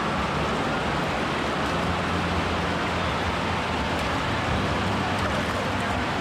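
Steady rush of water in an echoing indoor waterpark hall, with no clear change or single event.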